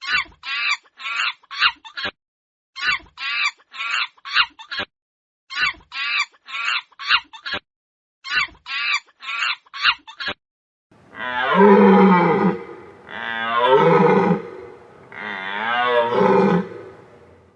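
Chicken clucking in quick runs of four or five clucks with short pauses between. About eleven seconds in this gives way to a large animal's long, loud calls, three of them, each one to two seconds long.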